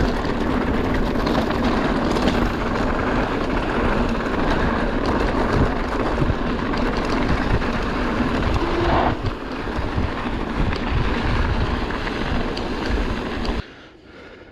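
Wind rushing over the microphone of a camera on a moving mountain bike, mixed with the bike's rattle over rough trail. The noise is steady and loud, then cuts off suddenly near the end to a much quieter background.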